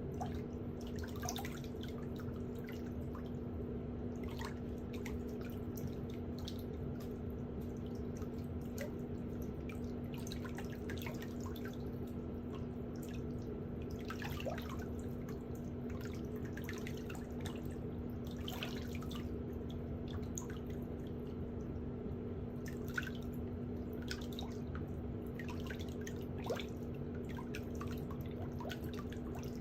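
Water dripping and trickling in scattered drops over a steady low hum.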